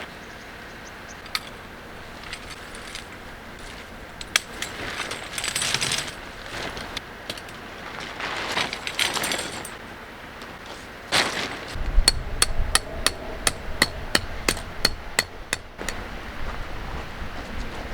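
Hammer blows: scattered knocks and rustling, then about two-thirds of the way in a quick, even run of sharp strikes, about three a second, lasting some four seconds.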